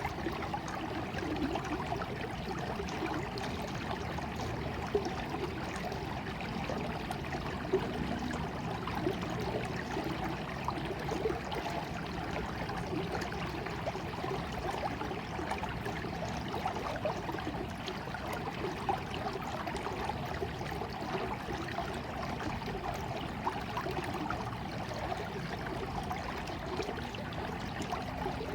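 Stream water flowing and trickling steadily, with small splashes flickering through it.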